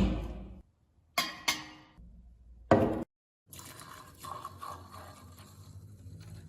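Metal and glass lamp parts being handled in short, abruptly cut clips: four sharp clinks and knocks that ring briefly, then a steadier stretch of scraping and handling noise.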